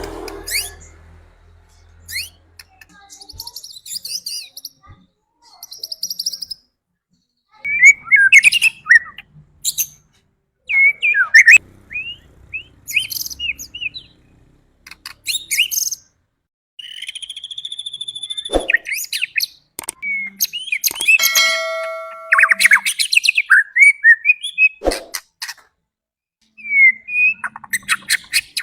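White-rumped shama (murai batu) singing: varied whistled phrases, rapid chattering notes and trills in bursts with short pauses between them.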